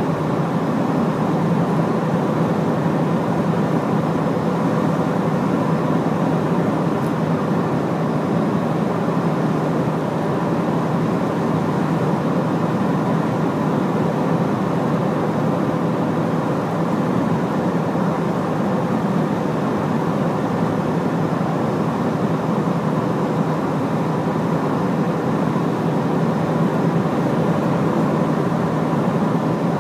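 Large Hino diesel truck running at a steady cruise: engine and road noise held constant, with no rise or fall in pitch.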